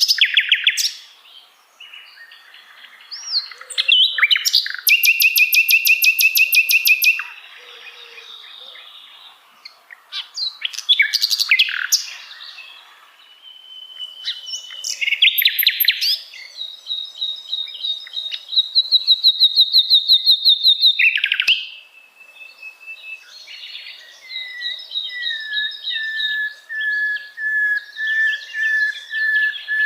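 Common nightingale singing: a string of varied phrases with short pauses between them, including fast rattling runs of repeated notes and, near the end, a long drawn-out whistle that sinks slightly in pitch.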